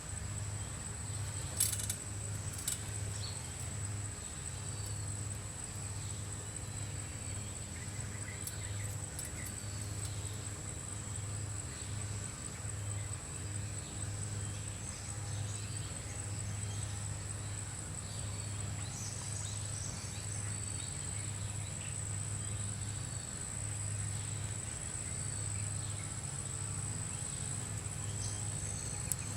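Steady, high-pitched insect drone of the forest, with a low hum underneath, faint chirps and a few sharp clicks scattered through.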